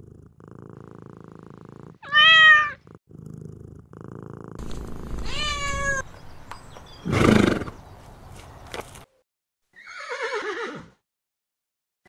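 A cat meows twice, short cries that rise and then fall in pitch, about two and five seconds in. Then a horse gives a loud, short, breathy sound and, near the end, a whinny that falls in pitch with a quaver.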